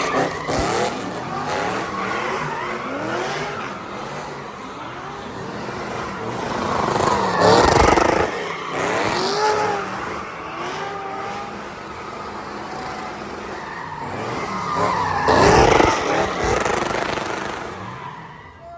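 Car engine revving hard with tyres squealing as it skids in circles, the sound swelling loudest twice, about halfway through and again near the end.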